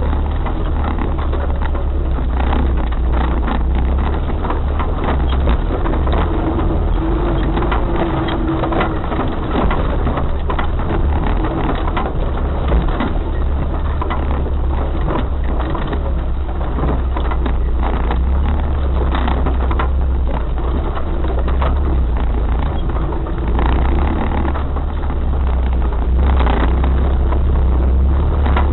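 Off-road 4x4 vehicle driving over rough ground: a steady low engine and drivetrain rumble with frequent knocks and rattles.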